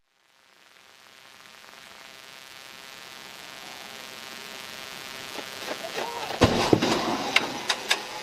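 A rushing noise that grows steadily louder, then a loud thump about six and a half seconds in, followed by a few sharp clicks.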